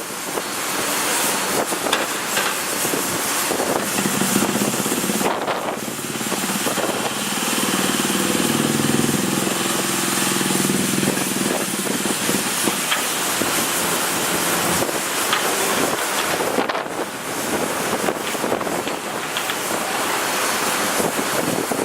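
Steady outdoor noise of passing road traffic with wind buffeting the microphone; an engine hum grows louder around the middle.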